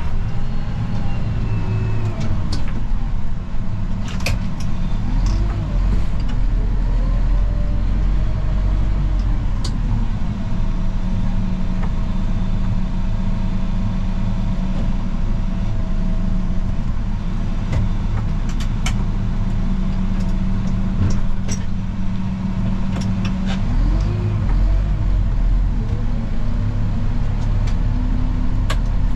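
Vehicle engine running steadily, its pitch rising and falling at times, with scattered clicks and knocks.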